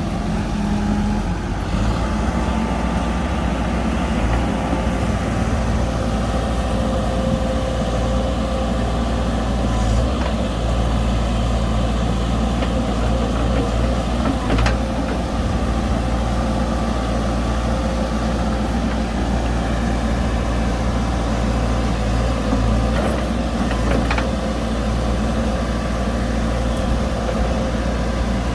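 Heavy diesel construction machinery running steadily with a low engine drone, with a few brief knocks at intervals.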